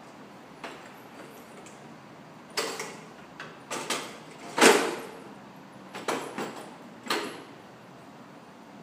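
A string of about eight irregular knocks and bumps, each ringing briefly, the loudest a little past halfway.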